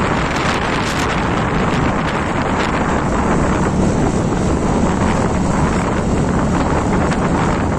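Wind buffeting the microphone on a moving Honda Activa scooter, a loud steady rushing noise with the ride's vehicle noise mixed in.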